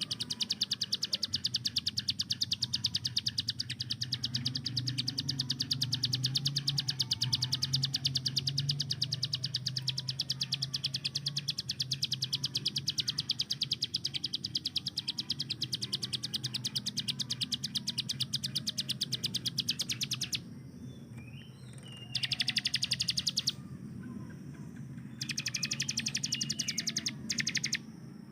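Ciblek gunung (a prinia) singing its fast machine-gun-like rattling trill, unbroken for about twenty seconds, then in two shorter bursts near the end.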